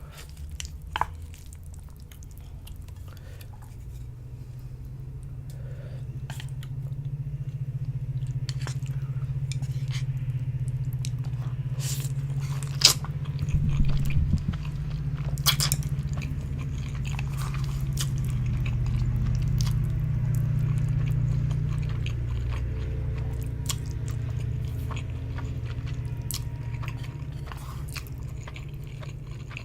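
Close-miked chewing of Samyang ramen noodles, with scattered sharp wet mouth clicks. A low rumble swells through the middle and is the loudest part.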